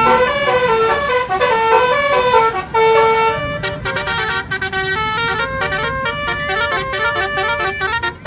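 Multi-tone 'telolet' bus horn of the Basuri type playing a quick melody of short horn notes. It switches to a different tune a little over three seconds in.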